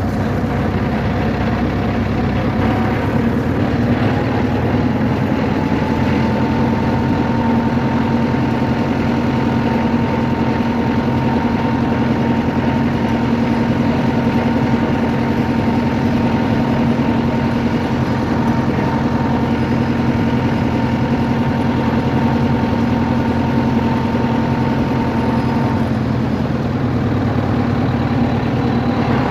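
A vehicle's engine running steadily over road noise. One engine tone rises slightly a few seconds in and falls back near the end.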